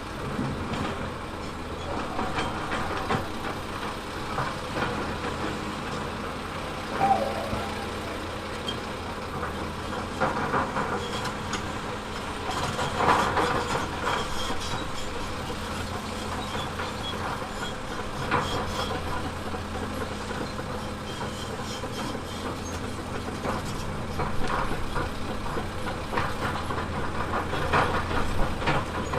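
Diesel engine of a heavy tracked earthmover running steadily, with clattering tracks and irregular clanks and scraping as it works rock and soil. The loudest clanks come about a third of the way in, around the middle and near the end.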